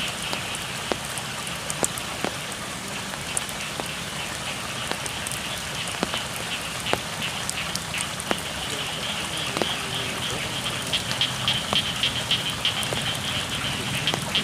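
Steady rain falling on rice paddies, with scattered sharp drop ticks. Over it runs a chorus of frogs calling in a high, continuous band that turns pulsing and louder in the last few seconds.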